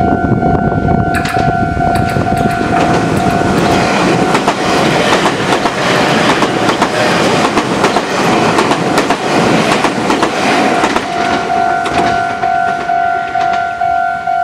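Six-car Meitetsu electric train (sets 3503F and 3209F) passing close by. Its wheels clatter over the rail joints, and the noise swells about a second in and fades from about eleven seconds. A level crossing's electronic alarm rings in quick pulses at the start and again near the end.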